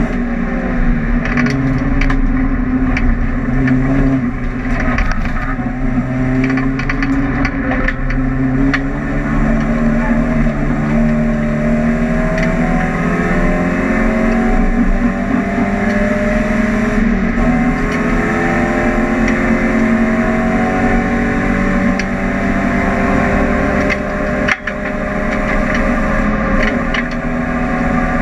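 A Volkswagen Golf GTI's four-cylinder engine running hard at racing speed, heard from inside the car. Its pitch climbs slowly through the second half, with one brief dip in sound about twenty-four seconds in.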